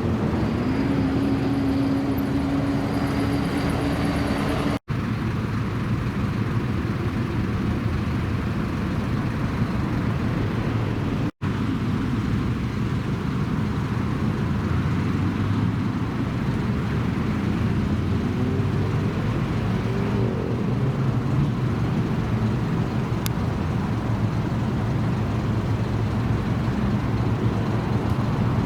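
Car engine running steadily, its revs rising and held higher for a few seconds near the start. The sound cuts out for an instant twice.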